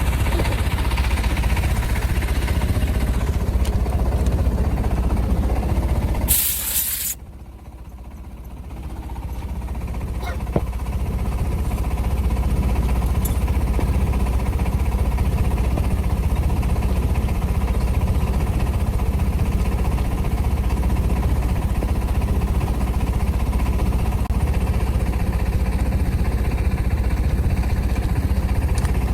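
An engine runs steadily throughout. About six seconds in, a loud hiss of compressed air blasts for just under a second and stops suddenly. The drone then drops away and builds back up over several seconds.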